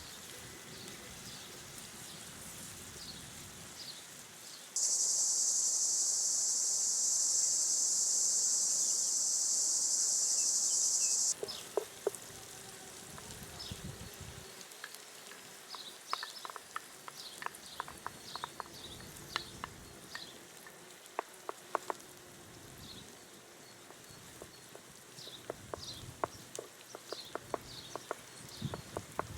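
Outdoor ambience dominated by a loud, steady, high insect buzz, like a cicada, lasting about six seconds and starting and stopping abruptly. Short bird chirps sound throughout, and a run of scattered sharp clicks or crackles fills the second half.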